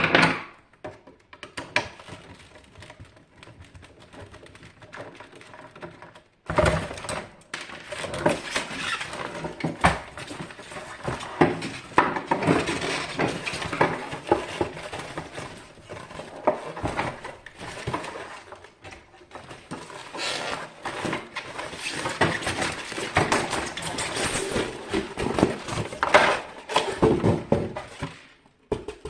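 Metal parts and tools clinking, scraping and rattling in irregular, dense clatter while a hot-water heater is being taken apart, starting after a few quiet seconds and stopping shortly before the end.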